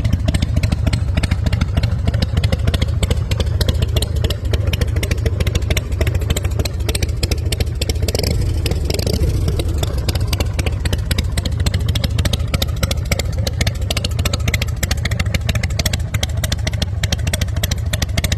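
Engine of a 2005 Harley-Davidson High Roller motorcycle, a V-twin, running loud and steady with a rapid, even pulse.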